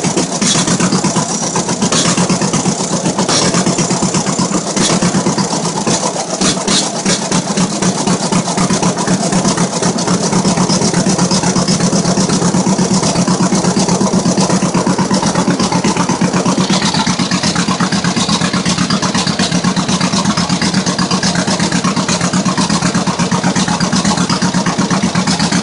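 1950 John Deere B's two-cylinder engine running steadily just after a cold start, warming up.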